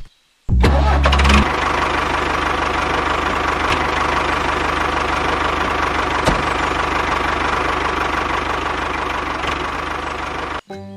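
An engine or motor starting with a loud low burst about half a second in, then running steadily until it cuts off abruptly near the end.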